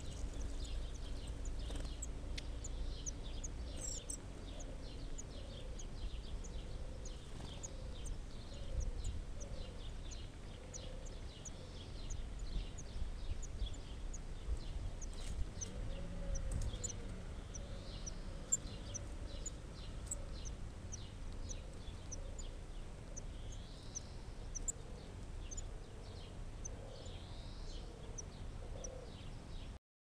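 Spotted flycatchers calling at the nest: thin, high-pitched chirps, a few each second, over a steady low rumble. A lower wavering call repeats faintly in the background.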